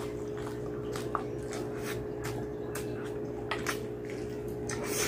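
Close-miked mouth sounds of eating saucy mutton curry by hand: irregular wet smacks and clicks of chewing and lips, over a steady low hum.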